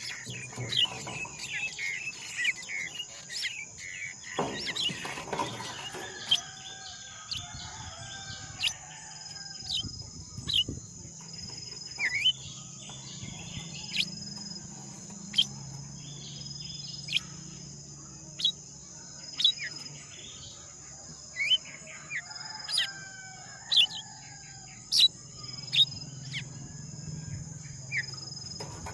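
Birds giving short, sharp chirps, thick at first and then about one a second, over a steady high-pitched insect drone.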